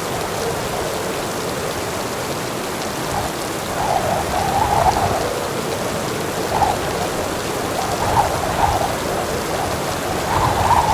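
Heavy rain falling steadily, with a few brief louder splashing swells.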